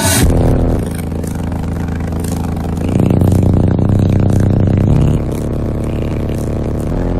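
Sustained deep bass notes played very loud through a car-audio system of six JVF Customs 3.3 12-inch subwoofers, the pitch stepping to a new note about three seconds in and again about five seconds in, loudest in between.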